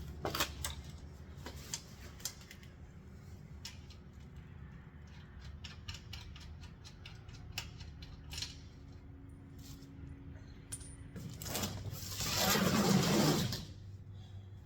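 Scattered light metallic clicks and taps of hand tools working on bolts, then a louder rushing, scraping noise lasting about two seconds near the end.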